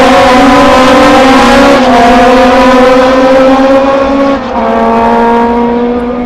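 Classic racing car's engine running hard at high revs, with a gear change about four and a half seconds in, then fading near the end as the car moves away.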